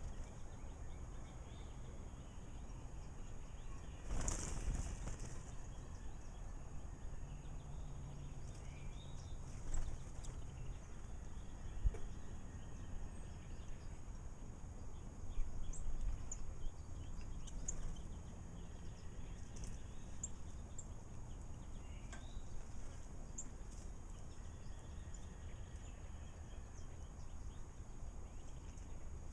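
Small birds at a bird bath, giving scattered short, high chirps over a steady low background rumble, with one brief noisy burst about four seconds in.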